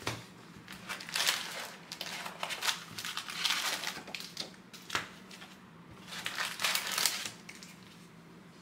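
Plastic wrapping on a trading-card hobby box crinkling and tearing as it is pulled off and handled, in irregular crackly bursts.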